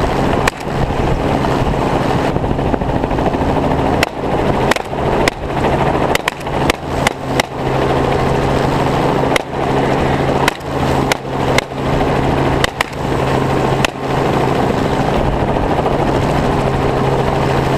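Steady drone of a helicopter's engine and rotor, with a rapid irregular string of semi-automatic rifle shots fired from the helicopter at running feral hogs: one shot near the start, then about twenty from about four seconds in, thinning out after about fourteen seconds.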